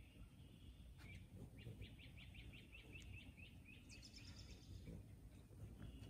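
A bird singing a trill of rapid repeated notes, about five a second, lasting around two seconds, then a brief higher run of notes. It is faint, over a low outdoor rumble.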